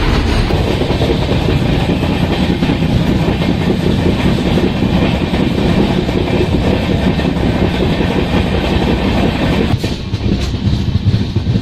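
Express train running at speed: a steady rumble with wheels clattering on the rails. It eases slightly near the end.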